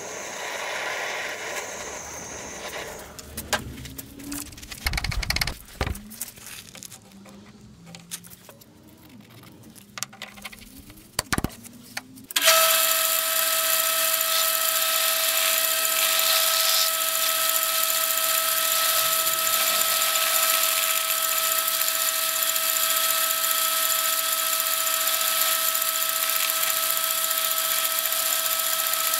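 Knocks and clatter of parts being handled. About twelve seconds in, a power machine tool starts and runs steadily with a high, even whine, machining a cast wheel.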